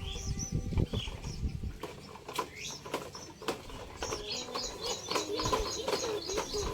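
Wild birds chirping, with a fast run of repeated high chirps, about five a second, starting about four seconds in. Low thumps in the first two seconds and a few sharp clicks.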